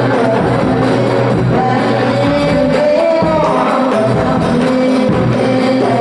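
Voices of Islamic boarding-school students singing a melodious religious song, with instrumental accompaniment.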